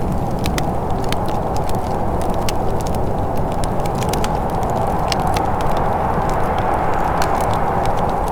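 Wood fire in a fireplace crackling, with frequent sharp irregular pops over a steady low rushing background.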